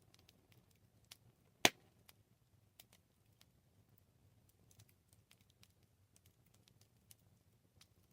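Campfire crackling: wood burning with scattered irregular snaps and ticks over a faint low rumble, and one sharp, louder pop about a second and a half in.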